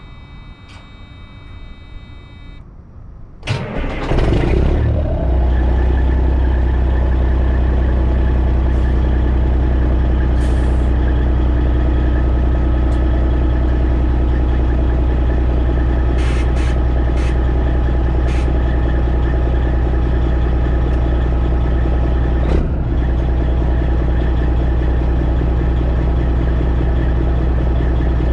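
Straight-piped Detroit Diesel Series 60 inline-six in a Freightliner Classic XL cranks and starts about three and a half seconds in, then settles into a loud, steady idle. Before the start, a steady electronic tone sounds and stops.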